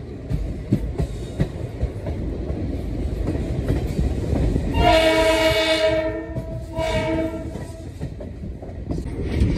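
Indian passenger train running at speed, heard from the coach doorway: a steady rumble of the coaches with wheels clattering over the rail joints. The locomotive's horn sounds twice, about five and seven seconds in, the first blast a little longer.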